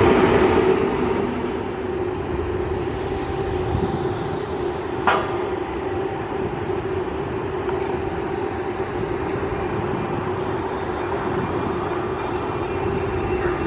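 Train running with a steady hum over rumbling noise, loudest in the first second, then holding steady; one short sharp click about five seconds in.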